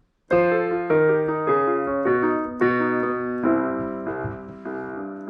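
Piano playing an instrumental passage of struck chords, a new chord every half second or so, coming in after a brief gap at the start.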